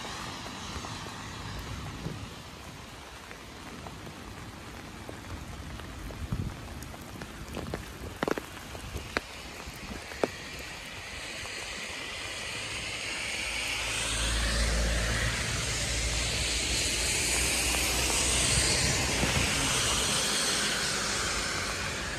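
Steady rain with a few sharp taps in the first half. From about halfway, the rumble and hiss of a passing vehicle swell up, stay loud for several seconds, then ease off near the end.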